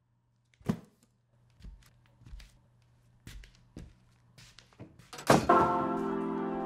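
A single thunk as the parcel is lifted, then a few soft footsteps walking away. About five seconds in, music comes in with a hit and sustained chords.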